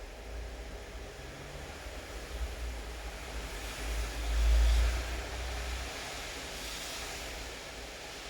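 Steady rain hiss, with a low rumble and a rising hiss that swell about halfway through, peak, and fade again.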